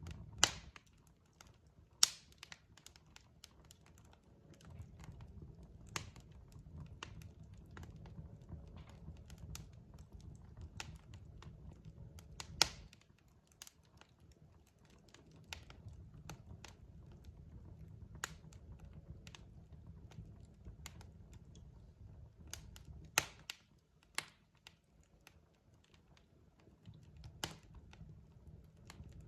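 Logs burning in a fireplace, crackling: irregular sharp pops and snaps over a low rumble, with a few louder pops, the strongest about half a second, two seconds and thirteen seconds in.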